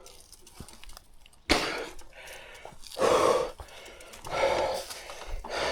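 A man breathing hard, four heavy breaths about a second and a half apart: out of breath from a steep uphill climb.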